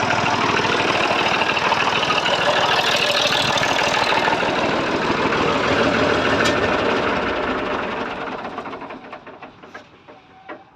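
Massey Ferguson 35 tractor engine running with a steady, rapid firing beat, then dying away over about two seconds, from roughly seven seconds in, leaving near quiet.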